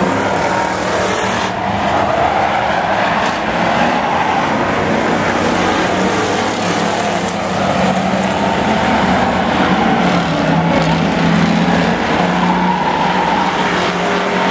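Several old pickup trucks racing, their engines running hard together in a loud, continuous mix that drifts in pitch as they pass.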